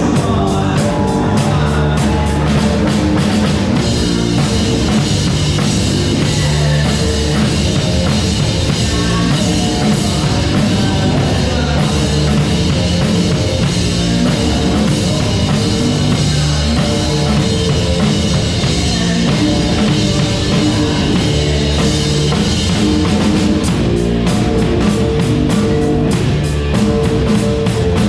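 Loud rock music with drum kit and guitar playing steadily.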